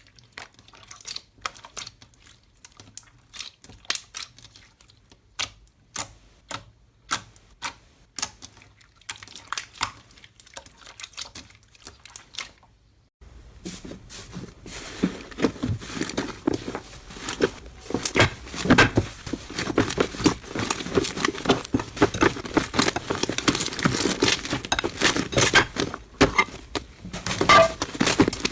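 Slime being pressed and handled: separate sharp sticky pops and clicks, then after an abrupt cut about 13 seconds in, a louder, denser run of crackling clicks.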